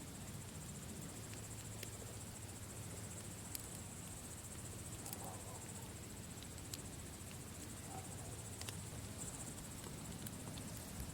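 A campfire burning, with sharp crackles and pops every second or so, over a steady high chirring of crickets.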